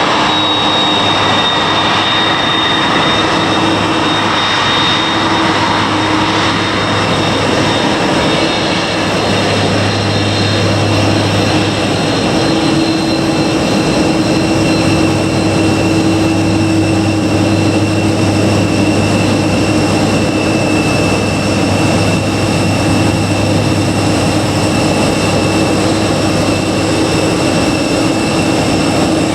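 Jet aircraft engines running steadily and loudly, with a high whine that sags slightly in pitch during the first few seconds over a continuous low hum.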